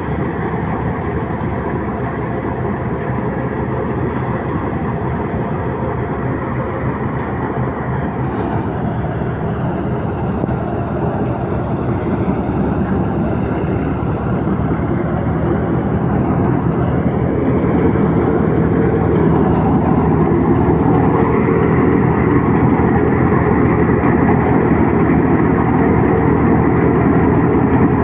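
Tractor engine running steadily, growing gradually louder over the first two-thirds.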